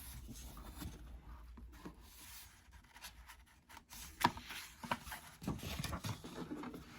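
Faint rustling and light clicks of a picture book being handled, its pages turned, with the sharpest click about four seconds in.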